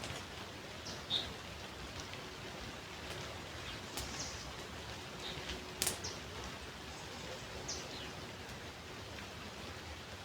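Birds calling now and then, short high chirps that dip in pitch, over a steady rushing background. Two sharp clicks, the louder about halfway through.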